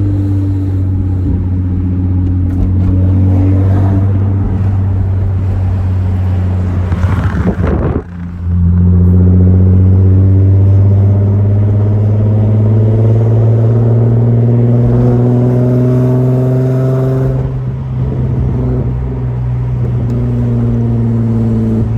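Nissan 350Z's V6 engine running through a newly fitted straight-through titanium Agency Power exhaust, held steady at first with a brief break about eight seconds in. The revs then climb slowly over several seconds and drop back shortly before the end.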